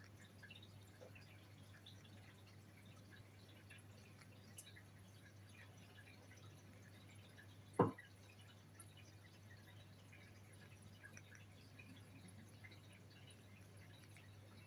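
Near silence in a small room: a low steady hum with faint scattered ticks, and one sharp click about eight seconds in.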